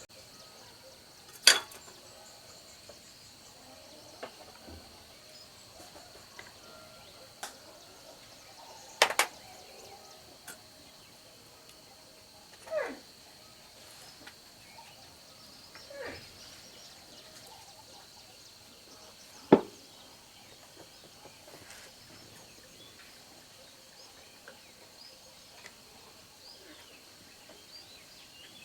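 Occasional sharp clicks and knocks of parts and tools being handled during a chainsaw repair, three of them loud and well apart, with a few short squeaks sliding down in pitch, over a faint steady high-pitched hum.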